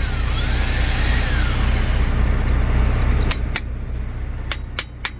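Truck engine running steadily, then from about three seconds in a quickening run of sharp clicks as the reefer unit's starter solenoid is jumped, without the starter cranking the engine over.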